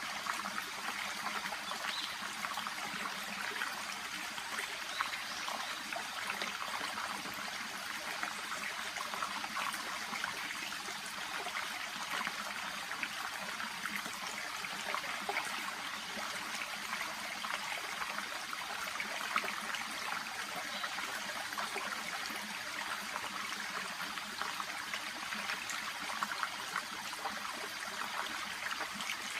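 A shallow, babbling brook (seseragi) trickling and gurgling steadily over stones, with constant fine splashing.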